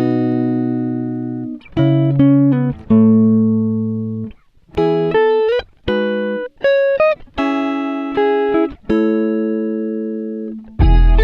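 Background music: a guitar-like plucked melody in short phrases with brief pauses between them, with a bass part coming in near the end.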